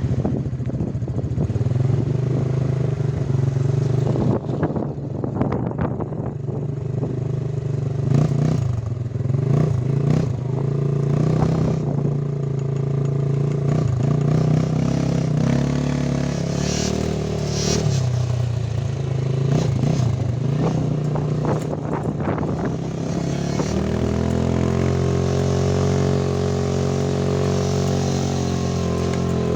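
Motor vehicle engine running while driving, its hum shifting in pitch several times and settling steady about three-quarters of the way through, with scattered knocks and clatter.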